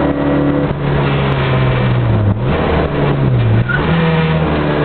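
Rally car engine heard from inside the cabin, running hard at high revs. The revs dip briefly twice, a little past two seconds and around three and a half seconds in, then climb higher again.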